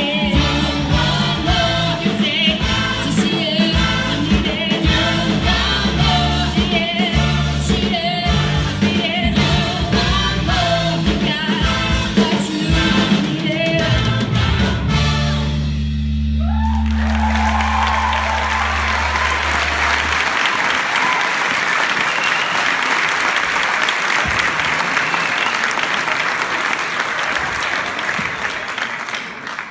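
A rock band with singing plays the last bars of a song and ends on a held chord about halfway through. Audience applause and cheering then fill the rest, cutting off at the end.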